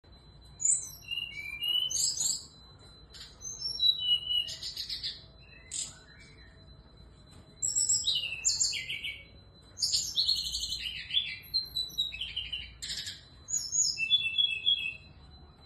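Female brown-chested jungle flycatcher singing: about five phrases of fast, varied chirps and trills, each a second or two long, with short pauses between them. A faint steady high-pitched tone sounds underneath.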